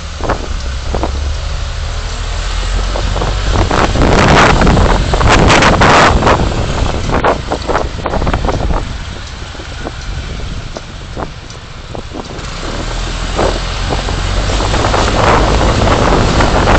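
Road and engine noise of a moving vehicle picked up by a dashcam, with wind buffeting the microphone in gusts. It swells loudest about four to six seconds in, eases off around the middle, and builds again near the end.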